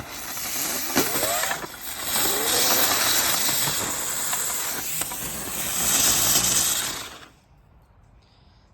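Consumer firework burning with a loud, steady hiss and spray, with a few short whistling glides in the first couple of seconds; it cuts off about seven seconds in.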